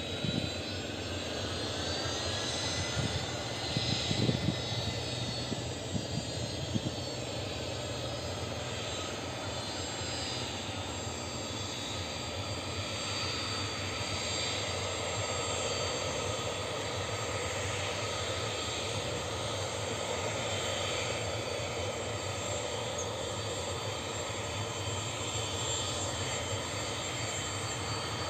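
Avro RJ85 airliner's four turbofan engines running steadily: a high whine of several tones over a broad rush, the tones shifting in pitch during the first few seconds. A few short bumps in the first seven seconds.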